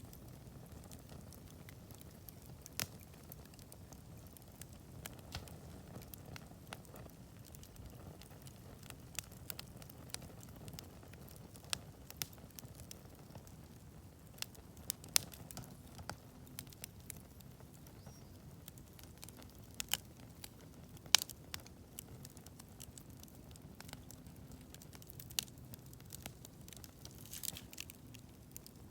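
Wood campfire burning, crackling with irregular sharp pops, a few of them louder, over a faint steady low rumble of the flames.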